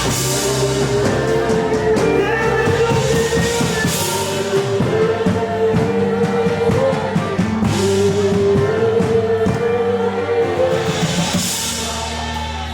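Live worship music: a singer holding long, slowly moving notes over a band with drum kit.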